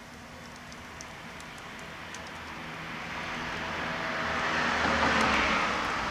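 A motor vehicle passing by, its engine and road noise swelling to a peak about five seconds in and then fading. Faint crackles from a burning hardwood log fire are heard underneath.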